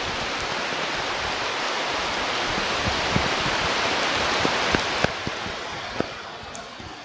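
Rushing noise of weather on an outdoor nest camera's microphone, swelling for about five seconds and then easing, with a few scattered clicks.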